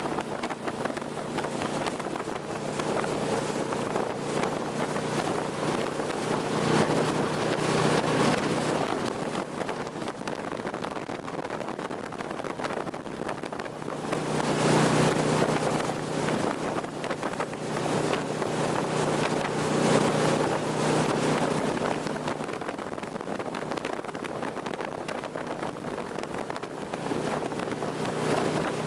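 Jet boat's engine running at speed, a steady hum under the rush of wind on the microphone and water; the noise swells louder several times.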